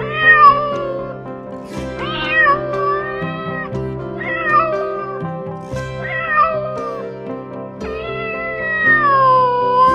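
A cat meowing five times, the last meow long and drawn out, wavering in pitch, over background music with sustained notes.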